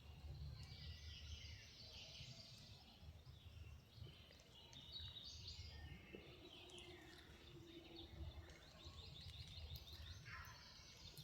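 Faint spring woodland birdsong with a low rumble of wind, and a wild turkey gobbling: a fast rattling call near the end.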